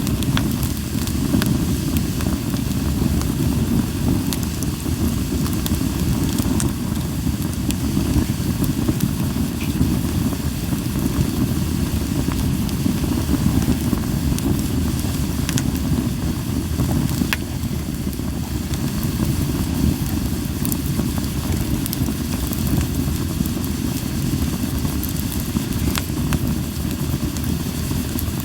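Linden-wood campfire burning: a steady low rushing noise with scattered sharp pops and crackles of the burning wood.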